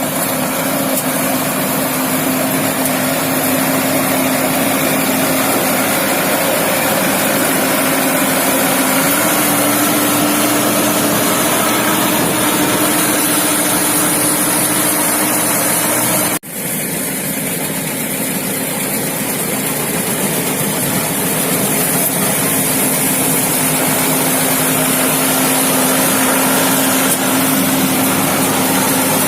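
Engine of a farm machine running steadily at a constant speed, its pitch stepping up slightly about nine seconds in. The sound drops out for a split second about sixteen seconds in, then carries on.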